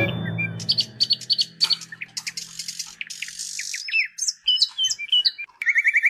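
Birds chirping: many short, quick chirps and whistled notes in rapid runs. A backing music track fades out over the first few seconds.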